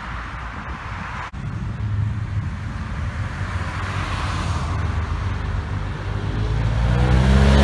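Car engines running as cars drive past, a low rumble that builds, with one engine getting louder and shifting in pitch near the end as it comes close.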